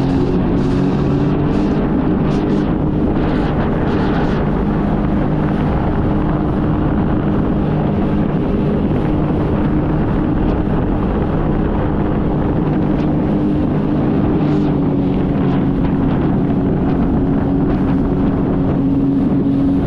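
Jet ski engine running steadily at speed, with wind rushing over the microphone.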